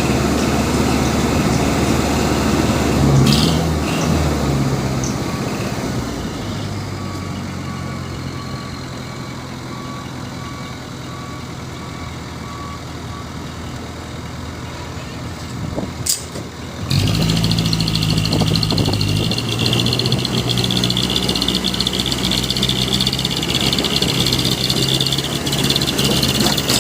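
Heavy diesel truck engines running under load. A faint evenly spaced beeping sounds through the quieter middle stretch, and about 17 s in the sound changes abruptly to a louder engine with hiss.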